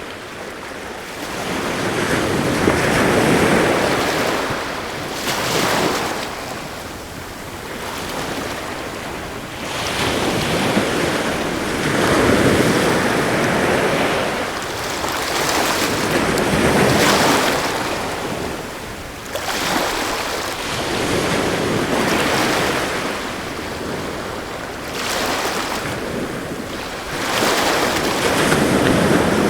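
Sea surf breaking in swells every four to five seconds, with strong wind blowing over the microphone.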